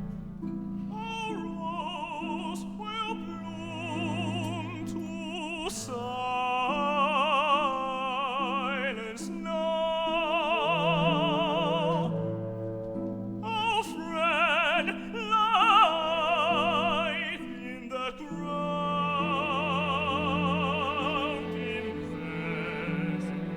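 Operatic singing with a wide vibrato, in long held phrases over sustained low notes from a small instrumental ensemble.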